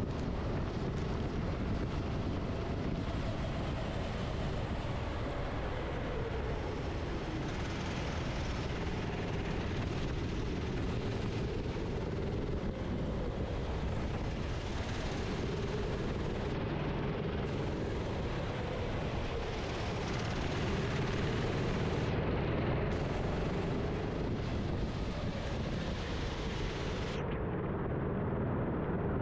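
Onboard sound of a racing kart's engine at speed, its pitch rising and falling as the driver accelerates and lifts through the corners, under a steady rush of wind and wet-track noise.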